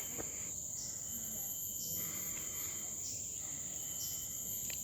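A chorus of forest insects making a continuous, steady high-pitched whine, with several held tones at different pitches.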